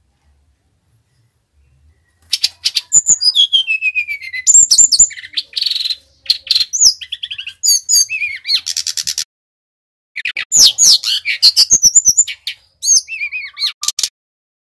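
Brown-chested jungle flycatcher (Bali SRDC) singing: after a short quiet start, two long, rapid bursts of high song with whistles sliding down in pitch, quick trills and clicky notes, split by a brief pause about two-thirds of the way in.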